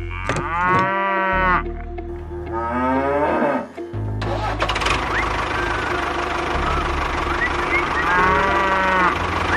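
Cattle mooing: two long calls that rise and fall in the first few seconds, and a third near the end. From about four seconds in, a steady mechanical rumble runs underneath.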